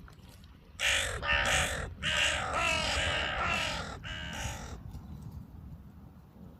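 Crow cawing: a quick run of about six caws starting about a second in and lasting some four seconds.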